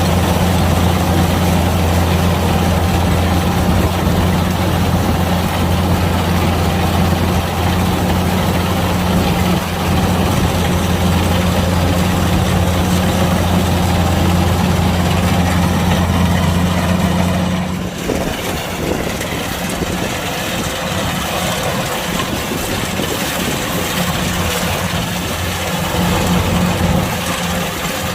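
Kubota DC-105X combine harvester running, a steady low engine drone under a broad mechanical noise. About two-thirds of the way through, the low drone stops abruptly and the mechanical noise goes on.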